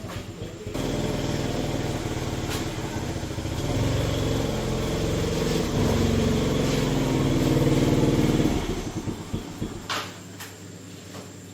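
A small engine running, louder through the middle and stopping about nine seconds in, followed by a few sharp clicks.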